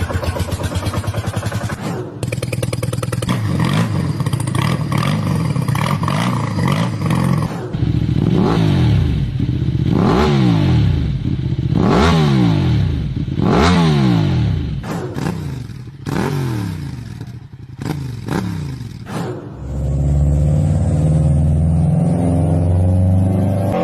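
A series of different internal-combustion engines running one after another in cut segments: first fast, distinct firing pulses, then a run of quick revs that rise and fall several times, and a smoother, steady-running engine near the end.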